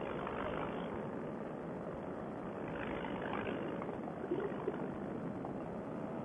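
Paramotor engine and propeller running steadily in flight, an even drone with no change in pitch.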